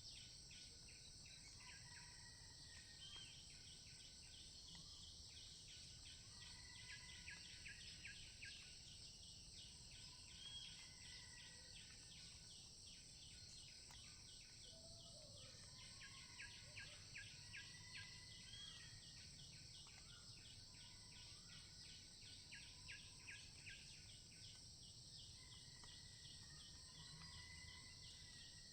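Faint forest ambience: a steady high-pitched insect drone, with a rapidly pulsing insect trill that comes and goes, and scattered short bird whistles.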